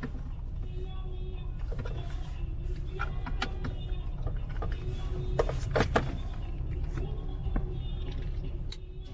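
Steady low rumble of vehicle or road noise, with scattered clicks and knocks, a few louder ones about six seconds in.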